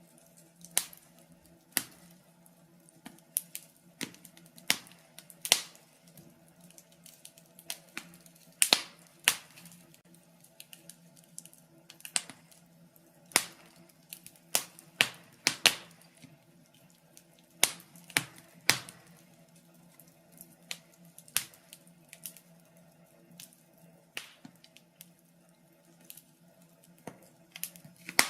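Wood fire burning in a fireplace, crackling with irregular sharp pops and snaps a second or a few seconds apart, over a faint steady hum.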